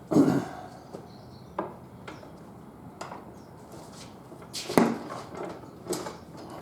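Metal tyre-changing tools knocking and clanking against a motorcycle wheel rim as a tight tyre bead is levered. There is a heavy thump right at the start, a few lighter knocks, and a sharp clank, the loudest, a little before five seconds in.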